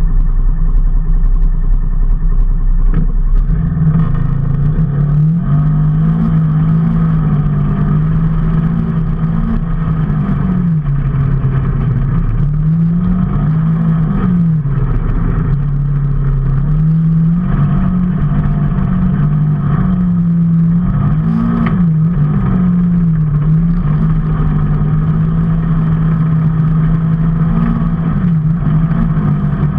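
A motor vehicle's engine running on the move, its note rising and falling again and again with the throttle over a steady road rumble. The engine note grows stronger about three and a half seconds in.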